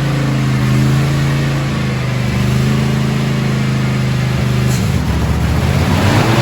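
John Deere X384 lawn tractor's 22 hp two-cylinder Kawasaki engine running steadily. About five seconds in, its pitch dips and then climbs back up.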